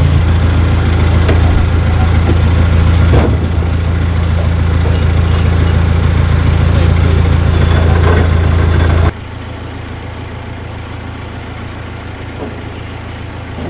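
Narrowboat's diesel engine running with a steady low hum, dropping abruptly to a much quieter level about nine seconds in.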